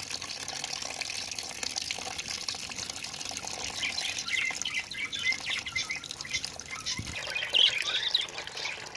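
Water running steadily, left flowing for pet budgerigars to bathe in, with budgies chirping over it from about four seconds in, busier near the end.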